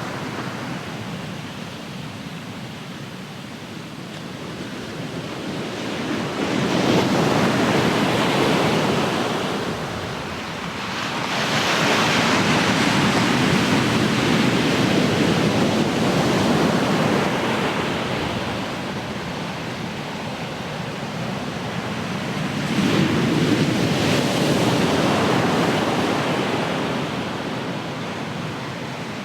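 Ocean waves breaking and washing on the shore, a continuous rushing wash that swells and eases in three slow surges.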